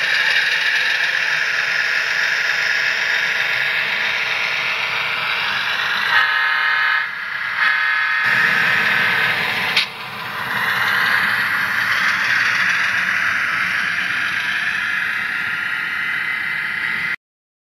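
HO-scale model locomotive's sound decoder playing a Fairbanks-Morse 38-D opposed-piston diesel prime mover through the model's small speaker, running steadily, with two horn blasts about six seconds in. The sound cuts off abruptly near the end.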